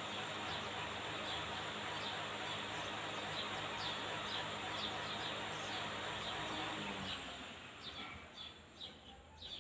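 Small birds chirping repeatedly over a steady rushing noise with a low hum. The rushing and hum drop away about seven and a half seconds in, leaving the chirps clearer.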